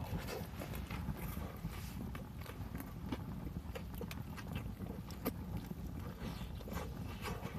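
Firewood burning in a small camp fireplace, crackling with irregular sharp pops over a steady low rumble.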